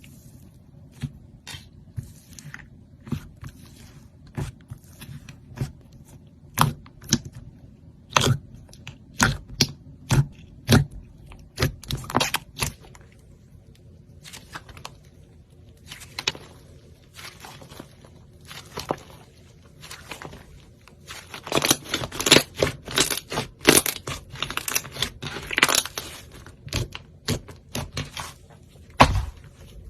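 A knife cutting through soap in crisp scraping, crunching strokes. They come singly and spaced out at first, then in quick runs in the second half.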